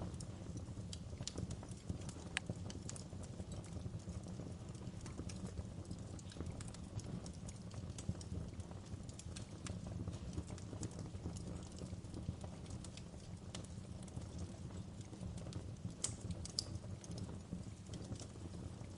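Wood fire burning in a fireplace: a steady low rumble of flames with irregular crackles and pops, a few sharper pops about two and a half seconds in and near the end.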